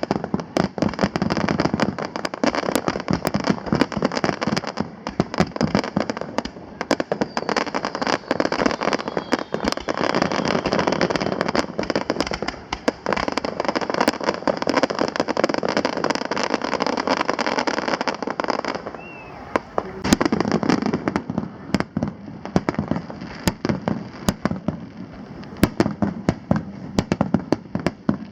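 Aerial fireworks bursting, with a dense, continuous crackle of many sharp pops and bangs. The crackle thins briefly about two-thirds of the way through, then picks up again.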